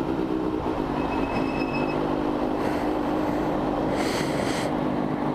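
Motorcycle engine running at a steady pace while riding. A brief high tone sounds about a second in.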